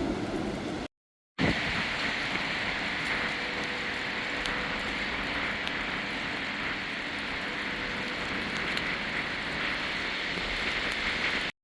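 Steady hiss of a wet snow and slush storm, with faint scattered ticks of sleet landing. The sound cuts out for half a second about a second in, then resumes.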